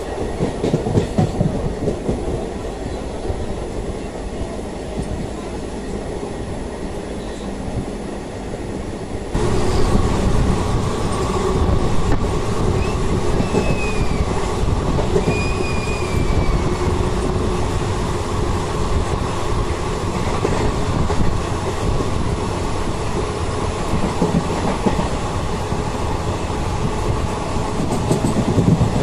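Passenger express train running on the line, heard from on board: a steady rumble of wheels on track with clickety-clack over the rail joints. About nine seconds in, the sound suddenly gets louder and brighter, and a few seconds later come two short, high squeals.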